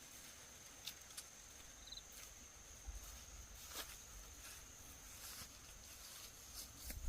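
Faint rural outdoor ambience: a steady high-pitched insect drone, with a few light clicks scattered through it.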